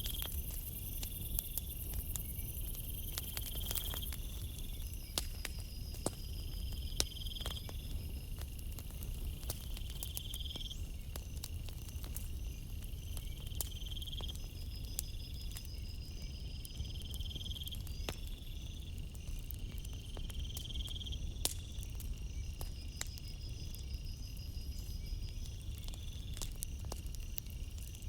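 Campfire crackling, with scattered sharp pops over a low steady rumble, while night insects chirp: a short chirp repeating about every two seconds, a higher trill every few seconds and a steady high buzz.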